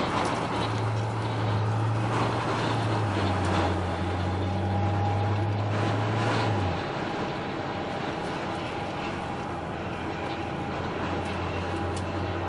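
Jet engines of a Boeing 757 running at taxi idle: a steady rumble and whine, with a low drone that steps down and fades about seven seconds in.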